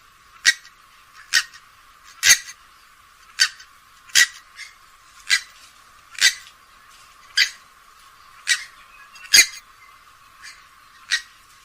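Grey-headed swamphen giving a series of short, sharp calls, about one a second, with a few fainter calls in between.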